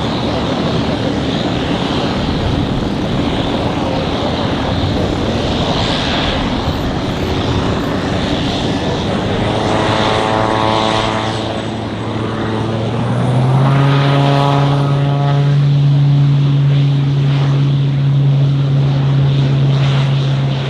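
Pilatus PC-12 NGX single turboprop running, its propeller giving a steady buzzing tone over the turbine rush. About 13 seconds in, the propeller tone steps up in pitch and gets louder, then holds steady.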